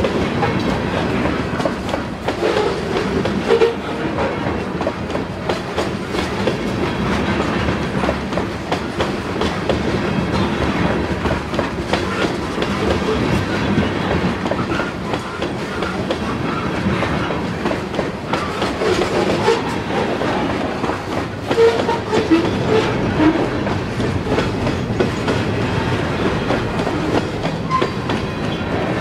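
Loaded covered hopper cars of a sand train rolling past close by, their steel wheels clicking and rumbling on the rails in a steady clickety-clack.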